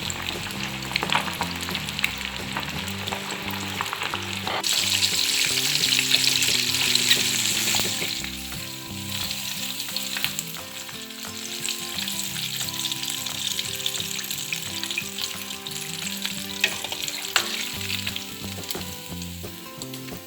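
Cornflour-coated chicken wings deep-frying in hot oil: a steady sizzle that turns suddenly louder about five seconds in, then eases back a few seconds later.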